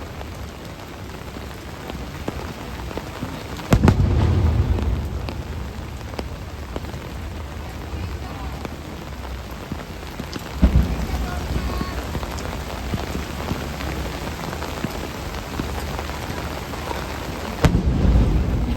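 Steady heavy rain, broken three times by the sharp boom of a firework shell bursting, each followed by a short deep rumble, about seven seconds apart.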